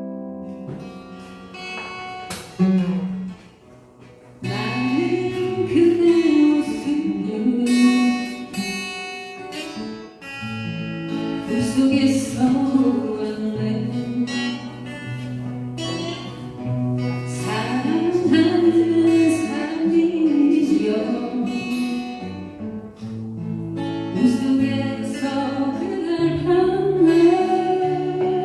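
Acoustic guitar playing chords, joined by a singing voice about four seconds in, after an opening chord rings out and fades. The song carries on with voice and strummed guitar together.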